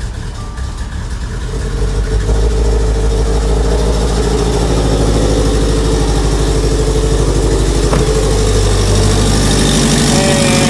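Subaru STI's turbocharged flat-four engine idling just after a start, on a freshly installed exhaust. It builds up over the first two seconds, then runs steady. The run is to check the new exhaust for leaks.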